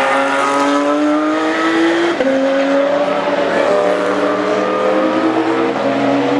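Car engine at racing speed, its pitch climbing under acceleration for about two seconds, dropping sharply at an upshift, then holding and easing down.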